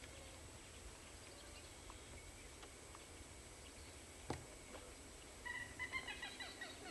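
A bird's quick run of short, pitched chattering calls near the end, over faint quiet marsh air, with a single sharp click about four seconds in.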